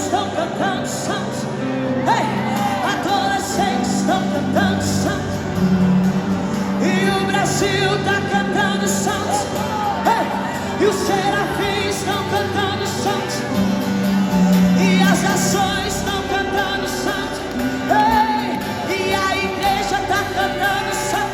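Live music in a large hall: a band with sung or instrumental melody lines over sustained chords.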